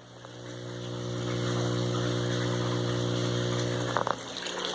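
Small electric aeration motor humming steadily. The hum swells over the first second and a half and stops about four seconds in.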